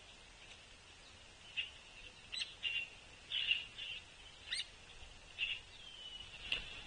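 Hairy Woodpeckers calling: short, sharp call notes repeated irregularly about once a second, typical of a juvenile begging to be fed, with one short falling whistle near the end.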